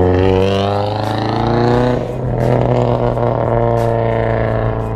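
Mitsubishi Lancer Evolution X's turbocharged four-cylinder engine accelerating hard as the car pulls away. Its pitch rises, drops at an upshift about two seconds in, then rises again through the next gear.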